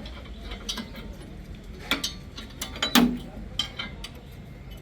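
Metal clicks and clinks from hand tools at work on a tractor's bumper fittings, with two sharper metallic knocks about two and three seconds in.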